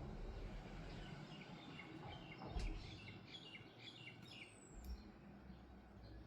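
A songbird giving a quick series of short repeated chirps for a few seconds, faint over steady outdoor background noise, with a soft low thump about two and a half seconds in.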